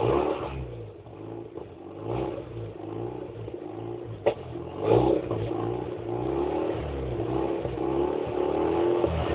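1995 Mazda RX-7's 13B twin-rotor rotary engine, warm, idling with a choppy, uneven exhaust note and given short blips of the throttle about two and five seconds in. A sharp exhaust pop cracks just before the second blip, and the revs climb gradually near the end.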